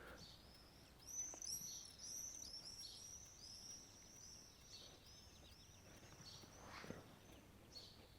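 A songbird singing faintly in a quick, run-on series of high, arching chirps lasting several seconds. There are a couple of faint knocks near the end.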